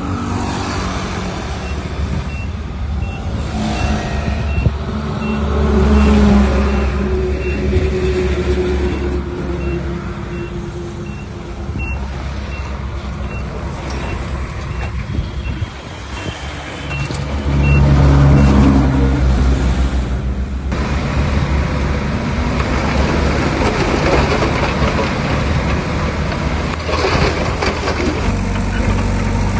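Heavy diesel earthmoving machinery at work, a bulldozer and dump trucks, with the engines rising under load twice. A reversing alarm beeps about twice a second through the first half or so.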